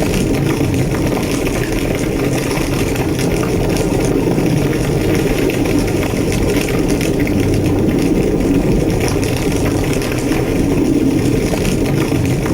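A large structure fire roaring steadily: a deep, even rumble with small crackles scattered through it.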